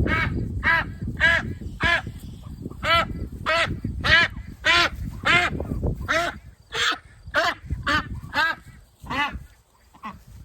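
Domestic ducks quacking in a rapid series, about two loud calls a second, thinning out near the end, over a low rumbling noise in the first half.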